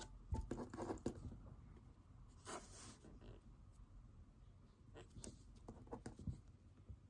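Faint pen-on-paper writing: light scratches and small taps come and go, with a short brushing stroke about two and a half seconds in.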